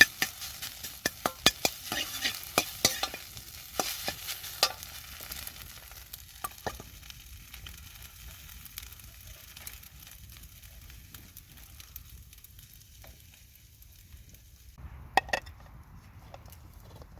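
Food sizzling in a wok while a utensil clanks and scrapes against the pan in quick strokes. After about five seconds the stirring stops and the sizzle dies down to a low hiss, with a brief clatter near the end.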